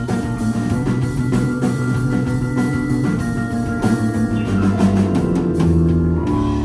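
Live band playing rock music on drum kit and guitar, building to a run of drum hits about four seconds in, then settling onto a held closing chord.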